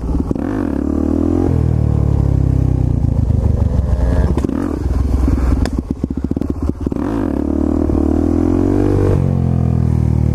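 Dirt bike's single-cylinder engine revving through a wheelie, its pitch climbing and dropping several times as the throttle is worked.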